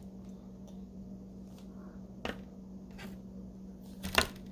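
Faint clicks and light taps of hands handling gingerbread kit pieces, with a louder short clatter about four seconds in, over a steady low hum.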